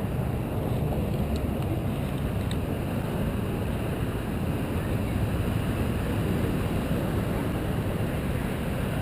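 Steady rushing noise of wind on the microphone mixed with ocean surf.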